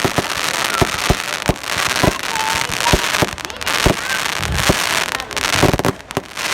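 Fireworks going off in quick succession: many sharp bangs at irregular intervals over a continuous crackling hiss.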